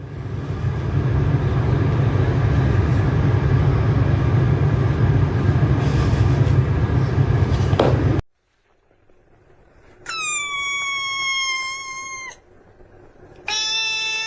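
A loud, steady rushing noise for about eight seconds that cuts off abruptly. Then a domestic cat gives one long meow of about two seconds, dropping slightly in pitch, and starts another near the end.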